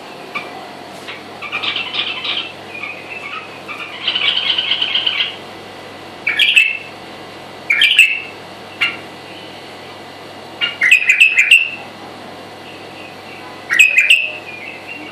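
A songbird singing in short separate phrases of bright chirps and trills with pauses between them, including a longer buzzy trill about four seconds in.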